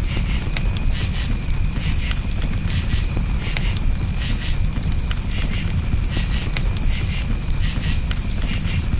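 Crickets chirping in quick repeated pulses over the low rumble of a campfire, with scattered sharp crackles and pops from the burning wood.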